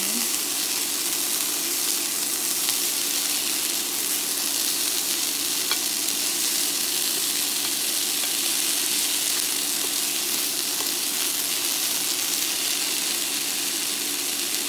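Green peas sizzling steadily as they sauté in melted butter in a skillet, stirred now and then with a wooden spoon. A low steady hum runs underneath.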